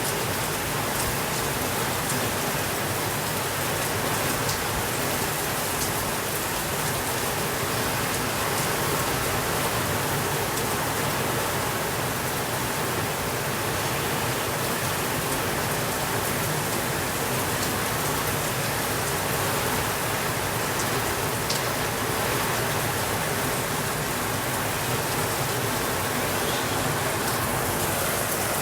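Heavy rain falling steadily on a window, an even hiss with a few faint ticks now and then.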